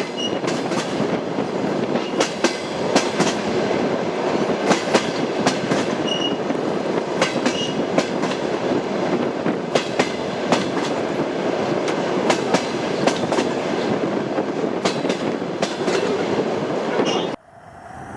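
Train wheels clattering over rail joints, with irregular sharp clicks over the steady rumble of a moving railway carriage. The sound cuts off abruptly near the end.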